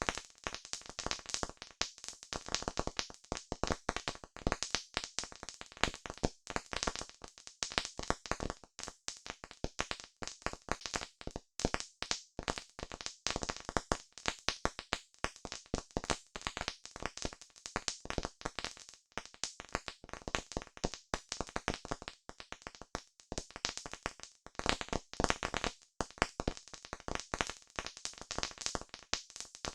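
Campfire crackling, with many quick, irregular snaps from the burning wood.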